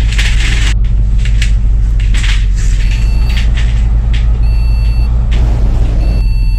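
Bus engine running steadily, heard inside the cabin as a deep hum, with fittings rattling and clicking over it. An electronic two-tone beep sounds about three times in the second half.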